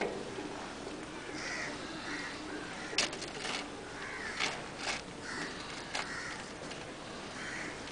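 Birds calling over and over in the background, with a few sharp taps and clicks from hands handling asphalt roofing shingles, the loudest about three seconds in.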